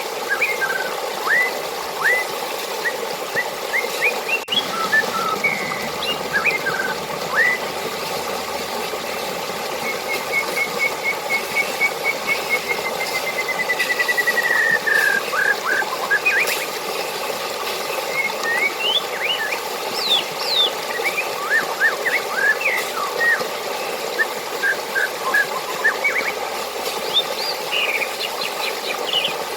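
Running water rushing steadily, with birds chirping over it. About ten seconds in, one bird gives a long trill of quick notes that speeds up and falls in pitch over about five seconds.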